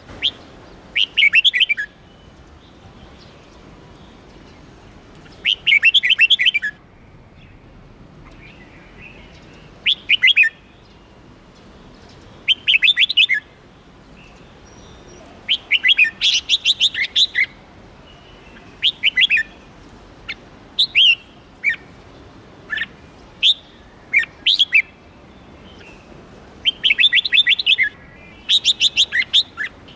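Red-whiskered bulbul singing: about a dozen short phrases of quick warbled and chattering notes, each lasting around a second, with pauses of a second or more between them.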